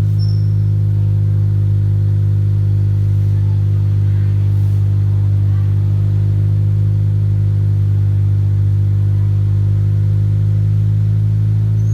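Honda Civic FK's exhaust through an aftermarket YS Racing middle section and muffler, the engine running steadily at one constant speed with a deep, even note and no revving.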